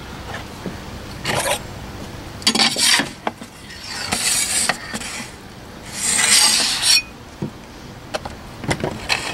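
Wooden door of a wood-fired oven scraping against the stone mouth of the oven as it is lifted off and set back, together with a loaf on a peel scraping over the oven floor. The sound comes as several separate rasping scrapes, the longest two about a second each in the middle, followed by a few light knocks near the end.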